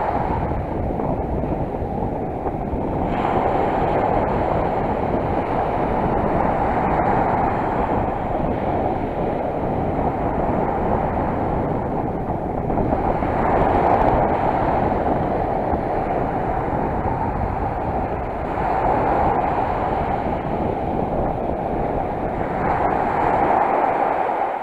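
Sea surf and wind on the microphone: a steady rushing noise that swells about every five seconds as waves break.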